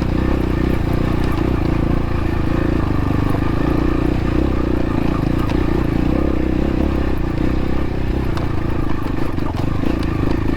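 Xpro Templar X dirt bike engine running steadily as the bike is ridden over rocky trail, with a few faint ticks over the engine.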